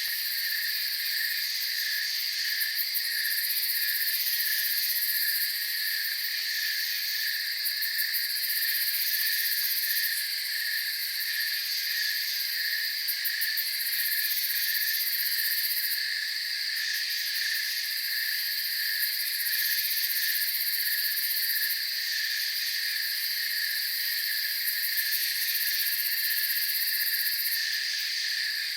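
Night chorus of crickets and other insects: several overlapping steady trills at different pitches, with a lower pulsing trill throughout and a very high-pitched buzz that comes and goes every few seconds.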